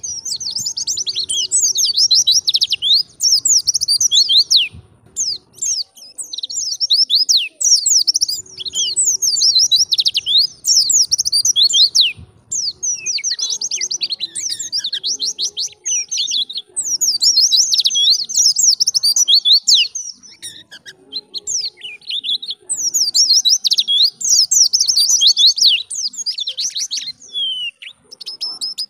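White-eye (pleci) singing in the wild-type 'ngalas' style: long, rapid runs of high chirps and trills. The phrases last several seconds each, with brief pauses between them.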